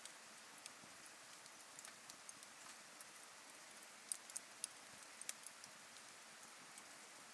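Wood campfire crackling faintly: irregular sharp pops and snaps over a soft steady hiss, with a small cluster of louder pops around four to five seconds in.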